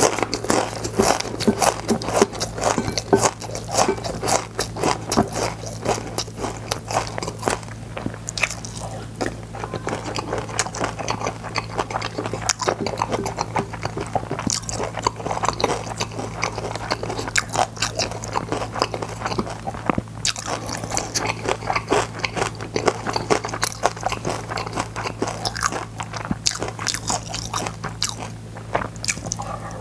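Close-miked crunching and chewing of crispy fried seaweed chips (gim bugak), bite after bite in an irregular run, over a steady low hum.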